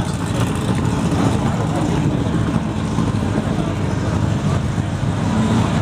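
Volkswagen cars driving in the background, their engines making a steady low hum.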